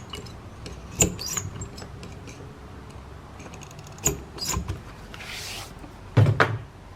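Paper and small craft pieces handled on a worktable: a few scattered taps, a brief rustle of paper a little past five seconds in, and a couple of louder knocks near the end.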